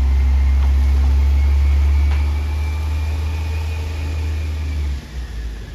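Peterbilt 320 front-loader garbage truck's diesel engine running with a steady low rumble and a faint high whine over it. It drops off sharply about five seconds in.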